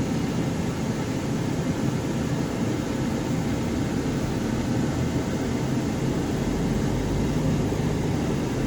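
Steady running noise of a vehicle heard from inside the cabin while driving: engine and tyre noise with no sudden events.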